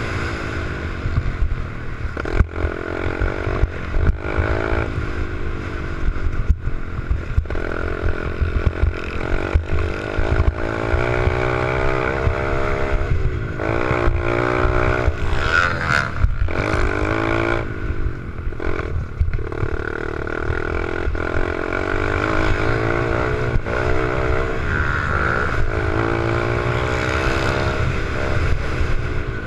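88cc four-stroke pit bike engine being ridden hard, its pitch rising and falling again and again as the throttle is opened and shut and the bike shifts, with brief dips in the engine note now and then.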